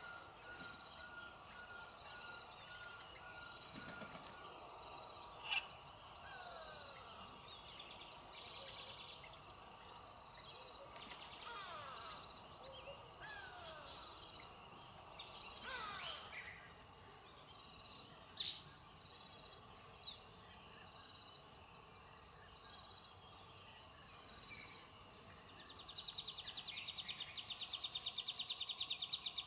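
Several wild birds calling over a steady high-pitched hiss. There are rapid pulsed trills, a short run of evenly repeated notes at the start, and scattered short calls that slide in pitch. The hiss stops shortly before the end.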